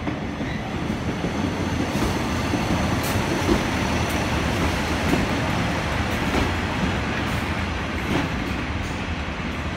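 A two-car diesel multiple unit running past close by on the nearest track: a steady rumble of engine and wheels with a few sharp wheel clicks over the rail joints.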